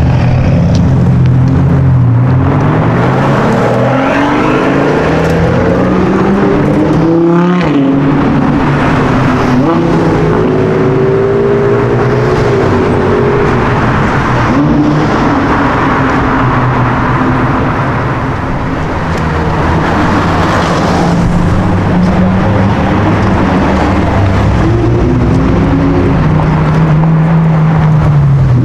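High-performance car engines revving and accelerating, the pitch climbing and dropping through several pulls, with a brief break about seven seconds in.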